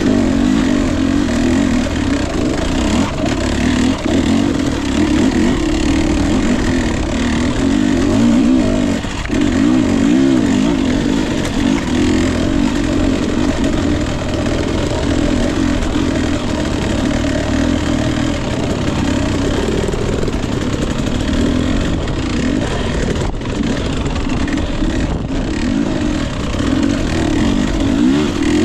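Husqvarna TE 250i single-cylinder two-stroke dirt bike engine running without a break, its revs rising and falling constantly.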